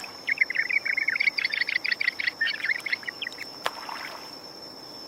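A bird chirping in a quick run of short, high notes for about three seconds, then stopping. A steady high-pitched tone runs underneath throughout.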